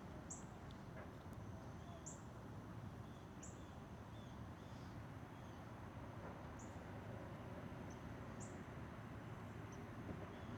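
A bird giving short, very high chirps every second or two over a steady low background hiss.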